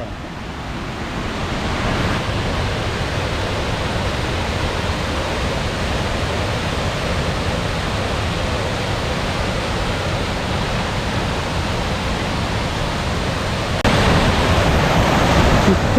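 Waterfall rushing: a steady, dense roar of falling water, which grows louder near the end.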